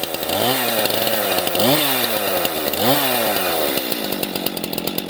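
STIHL MS 251 C two-stroke chainsaw running, revving up and dropping back three times about a second apart, then holding steady.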